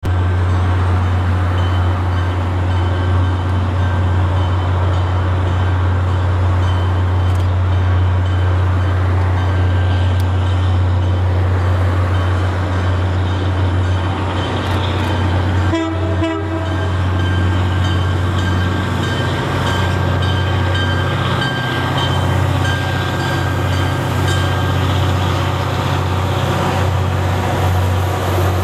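MBTA commuter train led by a diesel locomotive approaching and passing close by, over a loud steady low rumble, with its horn sounding partway through.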